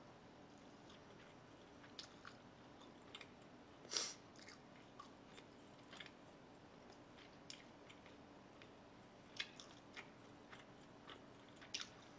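Close-miked eating: soft chewing with scattered wet mouth smacks and small crunches every second or so, the loudest about four seconds in.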